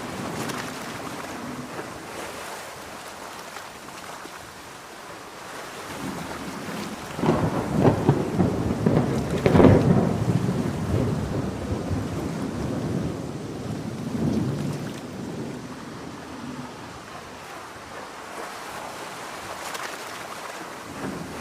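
Heavy rain hissing steadily under a thunderstorm, with a rolling peal of thunder that builds about seven seconds in, peaks with a crackle around ten seconds and rumbles away over the next few seconds.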